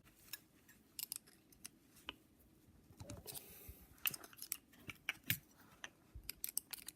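Light, irregular metallic clicks and scrapes of a screwdriver working a part into place on a new piston and pin assembly.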